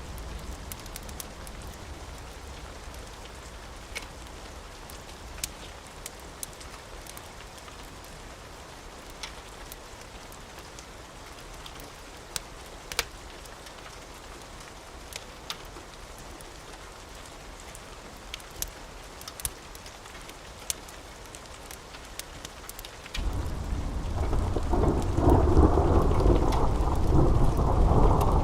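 Steady rain with scattered sharp ticks, then, near the end, a loud low thunder rumble sets in suddenly and keeps rolling.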